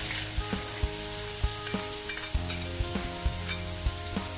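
Diced carrots sizzling in hot oil in a stainless steel wok, a steady frying hiss with scattered light clicks of the spatula against the pan.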